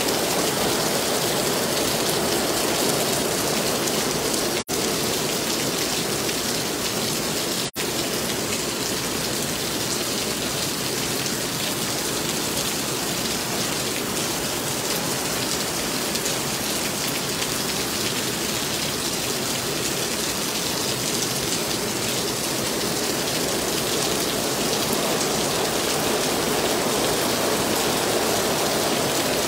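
Heavy rain pouring steadily, an even dense hiss of rain on the street and surroundings. The sound cuts out for an instant twice, about four and a half and seven and a half seconds in.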